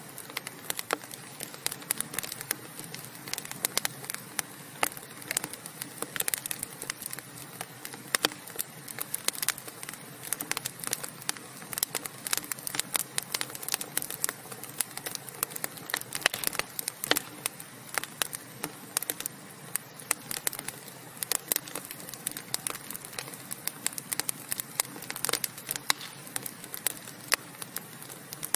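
Burning wood fire crackling and popping, with many sharp, irregular snaps over a steady hiss.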